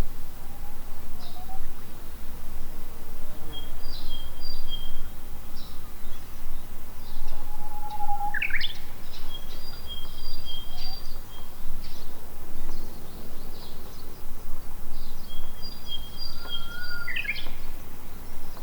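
Small birds chirping, with short high notes repeating throughout and a quick rising call about eight seconds in and again near the end, over a steady low background noise.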